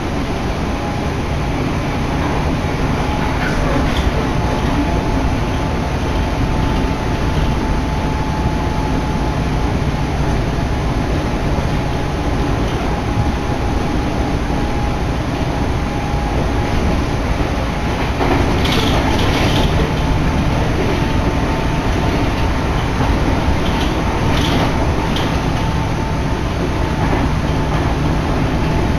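Electric train running, heard from inside the passenger car: a steady rumble of wheels on rail with a thin steady hum above it, and a few sharp clicks about two-thirds of the way through.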